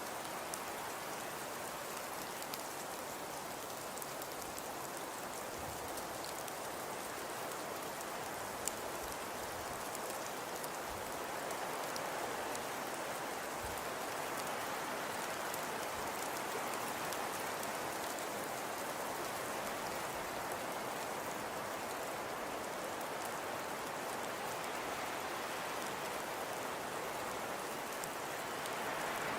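Fire crackling in a fireplace: a steady hiss with scattered small pops and one sharper pop about nine seconds in.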